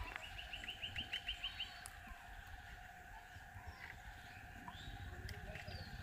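A bird calling a quick run of about ten short, high notes in the first second and a half, then a few fainter chirps, over a steady outdoor background drone.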